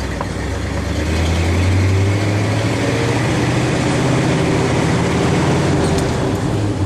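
Engine of an old Chevrolet farm truck pulling in gear, its note rising over the first couple of seconds and then holding steady.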